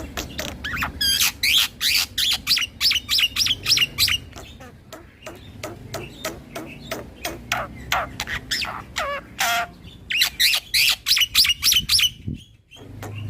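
Black-winged myna (jalak putih) singing a fast, rolling series of loud, sharp calls that sweep quickly in pitch. The calls come in two dense runs, one starting about a second in and one about ten seconds in, with sparser notes between.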